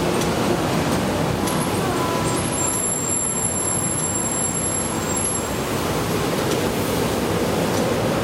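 Street traffic noise: road vehicles running with a steady low rumble. A thin high-pitched whine runs for a few seconds through the middle.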